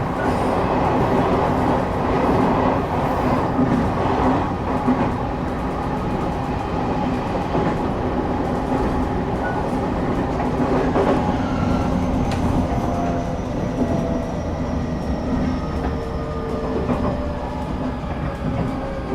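Interior noise of a moving passenger train: a steady rumble and rattle of the carriage on the rails. In the second half a faint high whine slowly falls in pitch.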